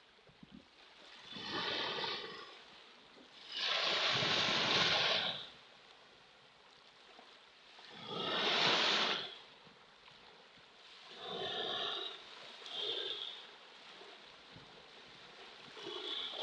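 Ocean waves washing in surges every few seconds, each lasting a second or two. The loudest comes about four seconds in, with another near nine seconds.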